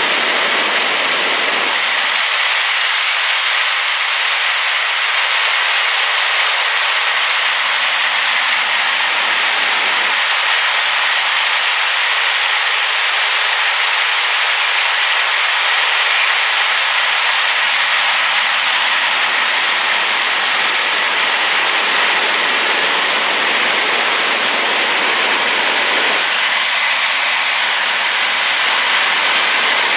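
Waterfall swollen by rain: a loud, steady rush of falling water that does not change.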